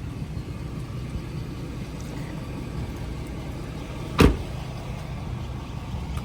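A 6.7-litre Power Stroke V8 diesel idling as a steady low rumble, with one sharp thump about four seconds in.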